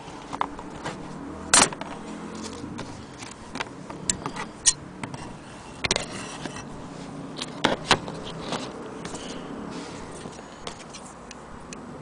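Scattered, irregular clicks and knocks of an antique Willcox & Gibbs sewing machine being handled, the loudest about a second and a half in and another pair near eight seconds.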